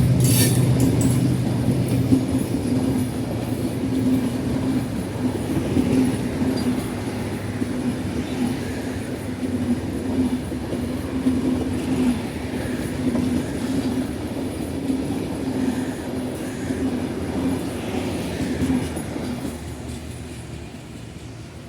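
A passenger train rolling past on the rails, a steady rumble of wheels with a faint squeal. The sound slowly fades as the train draws away.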